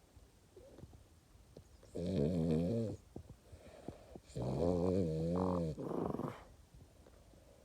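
French bulldog snoring in its sleep: two loud snores, the first about two seconds in and the second, longer one about four and a half seconds in.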